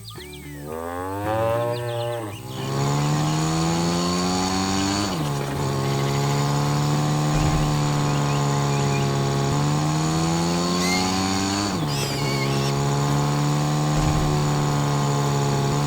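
Heavy farm harvester engine revving up over the first couple of seconds, then running steadily. Its pitch climbs slowly and drops back abruptly three times.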